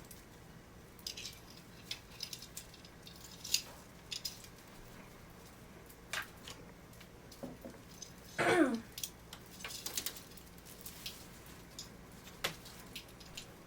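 Scattered light clicks and clinks of Christmas ornaments being handled and taken off the tree, with one short falling squeak a little past the middle.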